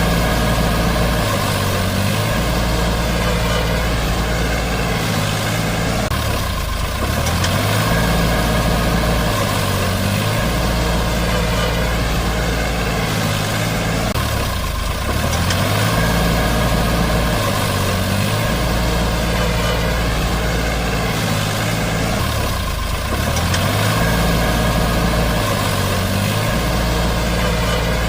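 Heavy tractor engine sound running steadily at low revs, its low pitch stepping up and down every several seconds.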